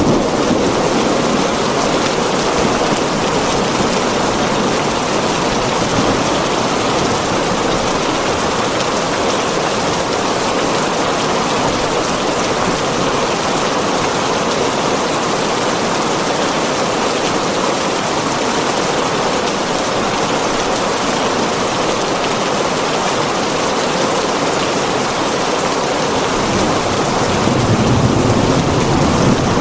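Heavy rain on a tin roof: a steady, dense hiss of drops. A low rumble swells in near the end.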